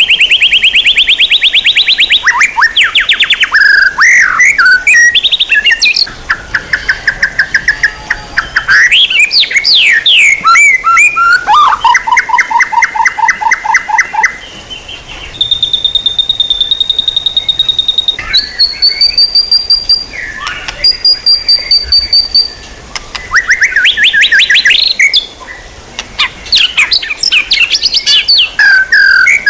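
Songbird song from a bird-training (masteran) recording: fast trills of rapidly repeated notes, a long steady high whistle in the middle, then short high whistled phrases and more quick sweeping, chattering notes near the end.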